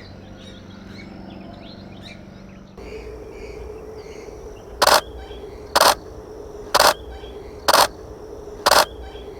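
Five loud, harsh, short bird calls about a second apart, starting around the middle, over faint background birdsong.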